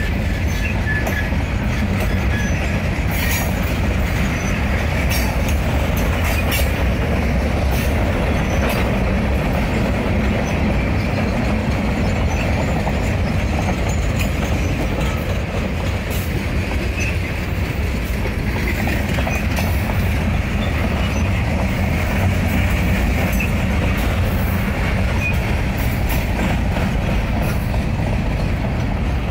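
Empty freight cars of a train rolling steadily past: a continuous low rumble with scattered clicks of wheels passing over rail joints.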